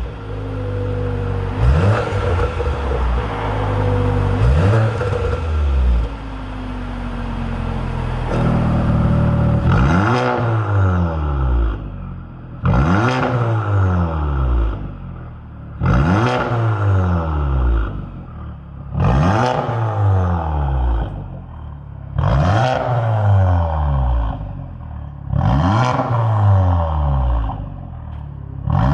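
Audi A6 C8 45 TFSI's turbocharged 2.0-litre four-cylinder engine, heard through an aftermarket valved full exhaust system. It runs steadily at first, then is revved in quick blips about every three seconds, each rising sharply and falling away.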